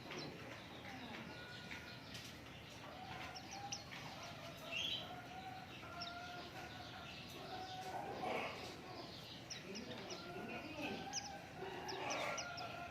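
Small songbirds, offered as pleci (white-eyes), chirping in many short, high, scattered calls, with a few longer lower-pitched calls underneath.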